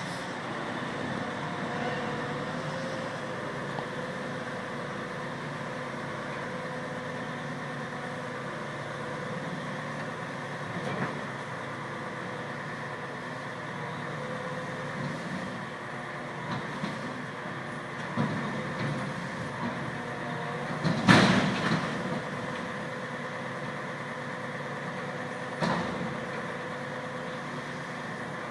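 Garbage truck running steadily, with a few knocks and one loud clattering crash about three-quarters of the way through.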